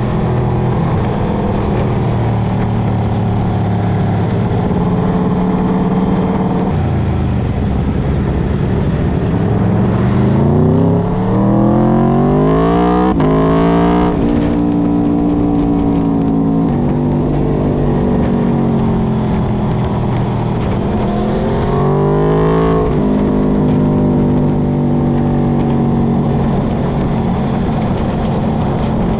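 Aprilia RSV4 RF's V4 engine under way, running steadily, then revving up hard about a third of the way in and dropping sharply in pitch at a gear change. It accelerates again later before settling back to a steady cruise.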